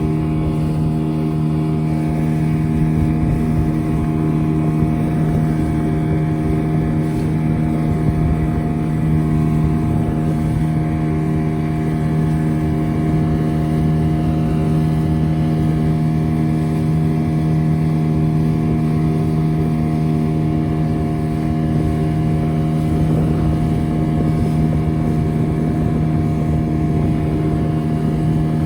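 Motorboat engine running at a steady speed, an unchanging drone with no rise or fall in pitch, over a rumbling noise of wind on the microphone.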